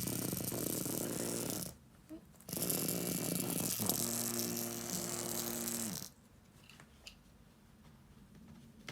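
Cat growling, a low rough growl in two long stretches. The second turns into a steadier drawn-out moan before stopping about six seconds in.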